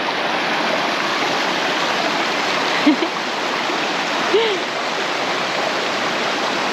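Fast mountain stream rushing steadily, an even roar of water. Two brief vocal sounds come through it, about three and four and a half seconds in.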